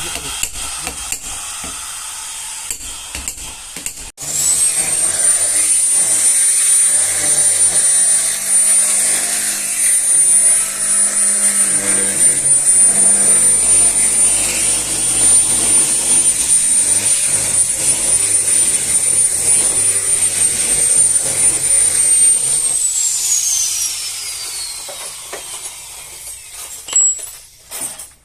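A power tool starts about four seconds in and runs with a high whine and a rough, grinding noise. Near the end it is switched off, and its pitch falls steadily as it spins down. Light tapping and clicking comes before it starts.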